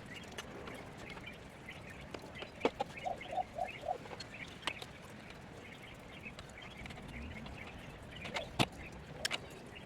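Birds calling: a quick run of about five short repeated calls around three seconds in, over scattered higher chirps, with a few sharp clicks near the end.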